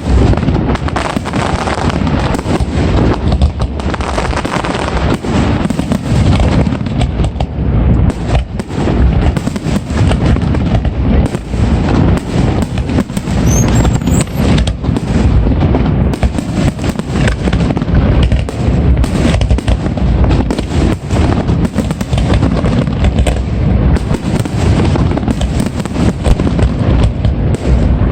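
Aerial fireworks display going off in a dense, continuous barrage of overlapping bangs and booms with a deep rumble underneath.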